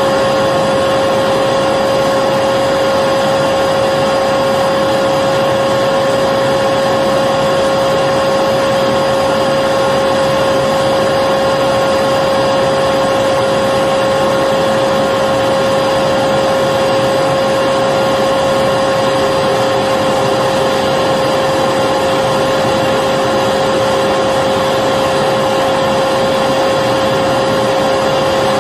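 Electric vacuum cleaner running steadily, a constant motor whine over an even rush of air with no change in pitch or level.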